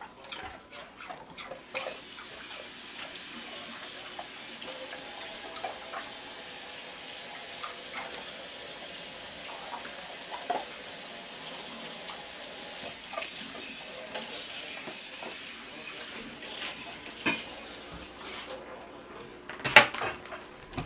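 A dog licking and pushing ice cubes about: steady wet lapping with scattered clicks of ice, and a burst of louder clicks near the end.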